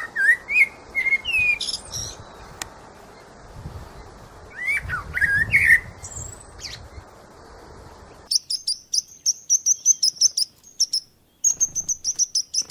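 Birdsong: varied whistled and gliding calls over a steady background hiss, then, after an abrupt change about eight seconds in, a rapid run of short high chirps, several a second, with a brief pause near the end.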